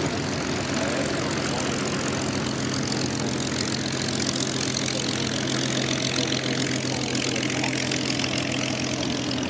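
Piston engines of a propeller-driven warbird running steadily, a continuous drone with a low steady hum through most of it.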